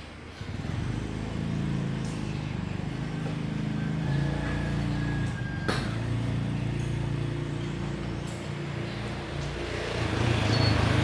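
A motor running steadily, starting about half a second in, with a sharp click near the middle.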